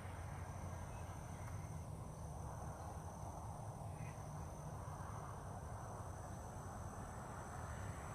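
Insects, likely crickets, trilling in a steady high-pitched drone, over a low continuous rumble.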